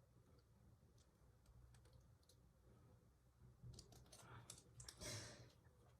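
Faint clicks and rustling of small plastic Lego pieces being handled and pressed together, with a cluster of sharper clicks in the last couple of seconds.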